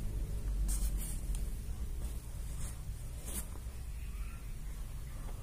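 Pen marking on a foam yoga mat: a few short scratchy strokes over a steady low hum.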